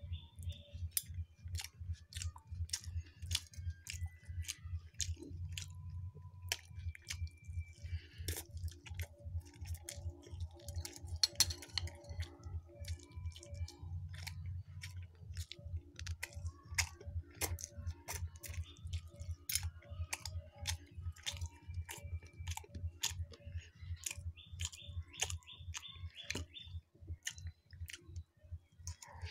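Close-up chewing of fried Mughlai paratha, with crisp crunches and short clicks of a fork against a plate.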